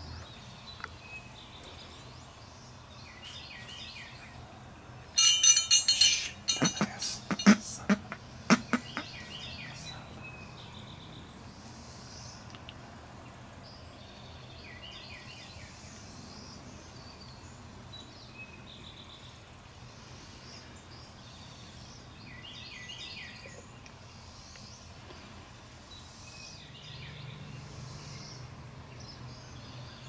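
Songbirds calling in short repeated phrases every few seconds over a steady outdoor background. About five seconds in, a loud burst of rapid clicks is followed by several separate sharp knocks over about three seconds.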